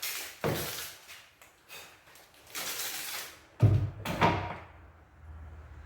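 Work on an MDF cabinet: a few short rasping strokes, then two heavy thuds about half a second apart, the loudest sounds, followed by a faint low hum.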